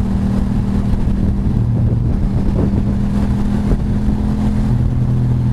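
Motorcycle engine running steadily at low revs, its pitch barely changing, with some wind noise.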